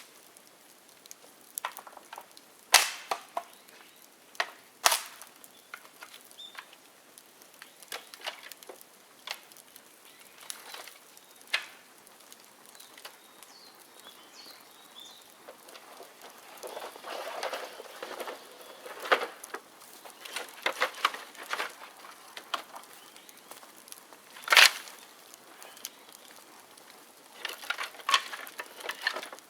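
Bonfire of dead bamboo crackling, with scattered sharp pops and cracks at irregular intervals and a denser run of crackling past the middle. Three cracks stand out as the loudest: two in the first five seconds and one a little past the eighty-percent mark.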